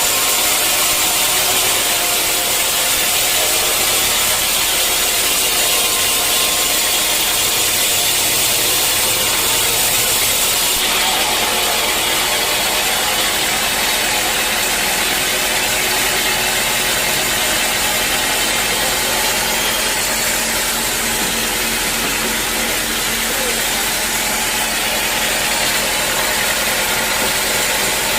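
Sawmill saw and machinery running steadily at full noise, with a shift in the sound about eleven seconds in.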